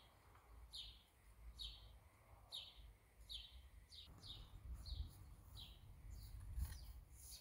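A bird repeating a short, high, falling chirp about once a second, over a low rumble, with a single knock near the end.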